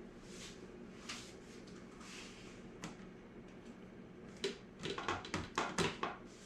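Kitchen handling sounds while cookie dough is put into a baking pan: a few soft scrapes, a single click, then a quick run of clicks and knocks near the end, the loudest part.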